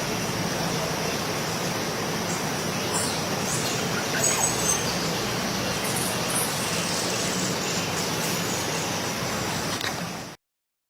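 Steady rushing outdoor ambience with a few faint, short high bird chirps about four seconds in; it cuts off abruptly near the end.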